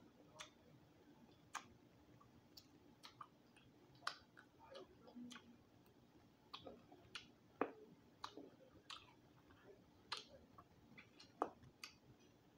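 Close-up eating sounds from crispy roasted quail: scattered, irregular sharp clicks and small crunches of chewing and lip smacks as meat is pulled off the little bones, a few of them much louder than the rest.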